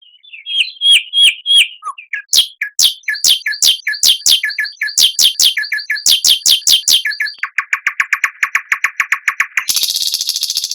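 Songbird singing: a string of sharp, quickly repeated downslurred notes, then a rapid even trill, ending in a short harsh buzz.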